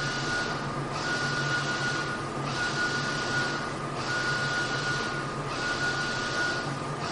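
Mutoh Blizzard wide-format printer running, its print-head carriage sweeping back and forth across the media in one pass about every second and a half. Each pass carries a whirring hiss and a steady whine, and both drop out briefly as the carriage reverses.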